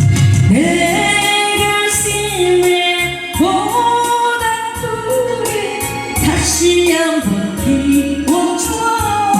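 A woman singing a Korean ballad live, with long held notes that glide between pitches, over electronic keyboard accompaniment.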